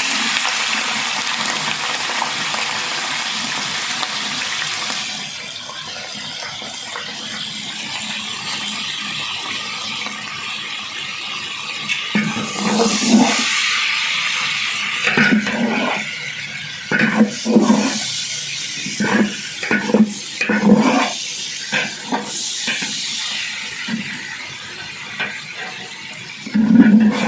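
Tap water running loudly for about five seconds, then more quietly, with repeated irregular splashes and sloshes in the second half.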